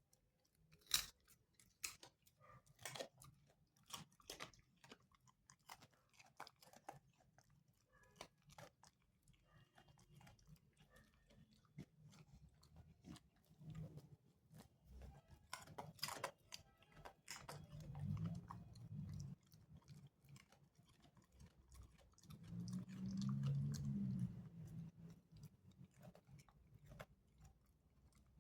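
A beagle crunching and chewing a raw carrot: sharp, irregular crunches throughout, the loudest about a second in and around sixteen seconds. A low hum comes in twice in the second half.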